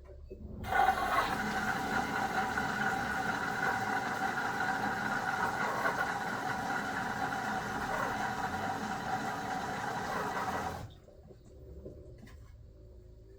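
9 kg LG washing machine running: a steady mechanical whine over a hiss that starts about a second in and cuts off abruptly some ten seconds later.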